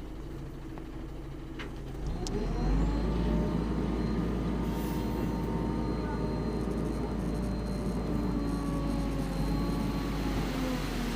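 Dump truck's diesel engine revving up about two seconds in and holding a steady high speed, easing off slightly near the end, as the engine works to tip the load of sand.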